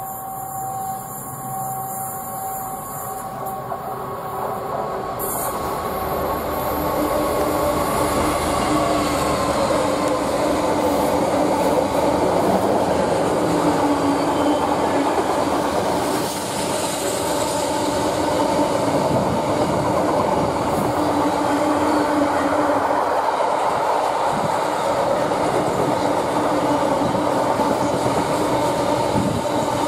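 A Freightliner Class 66 diesel locomotive hauling a container freight train draws in and passes, getting louder over the first several seconds. After it, a long line of container wagons rolls past with steady wheel-on-rail rumble and a continuous whining tone.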